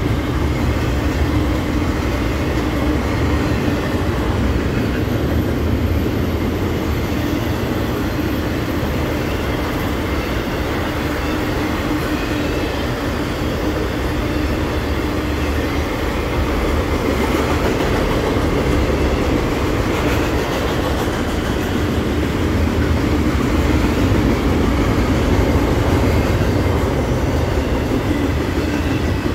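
CSX double-stack intermodal container cars rolling past at speed: a steady rumble and rattle of steel wheels on the rails, with the clickety-clack of wheels over rail joints.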